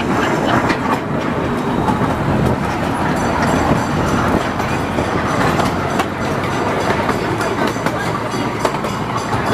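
Yellow Rose Express zoo train running along its track: a steady rumble with wheels clicking over the rails.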